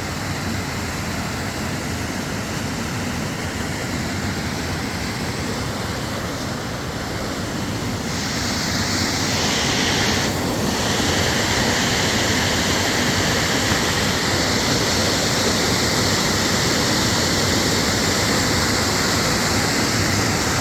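Steady rush of falling water from a waterfall, growing louder and hissier about eight seconds in.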